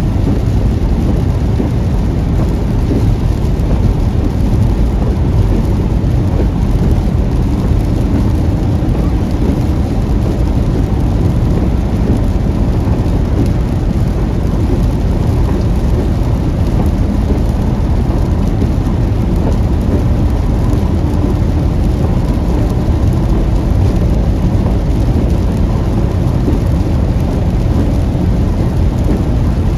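Heavy rain on a moving car, with a steady low rumble from the car and the wet road.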